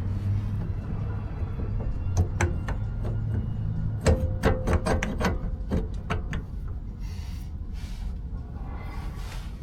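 Metal parts clanking and clinking as the front-axle spindle is handled and fitted onto a Chevy K5 Blazer's steering knuckle: a run of sharp knocks, a few ringing briefly, between about two and six and a half seconds in.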